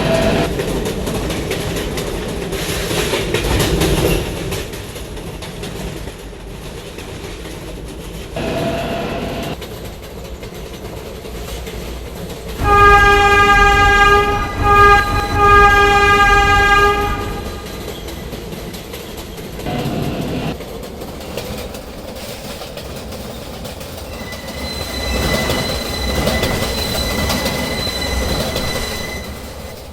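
New York City subway Z train running, with rumbling wheels and motor noise. About thirteen seconds in, a train horn sounds a long blast, a short one and another long one. Near the end a thin, steady wheel squeal is heard.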